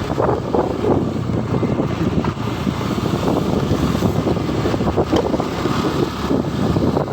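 Steady wind rush on the microphone of a moving motorcycle, with road noise underneath.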